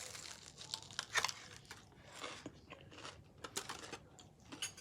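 Crunching and chewing as a person bites into a sugar-coated mozzarella dog: a few short crisp crunches, the loudest about a second in and again around three and a half seconds, between quieter chewing.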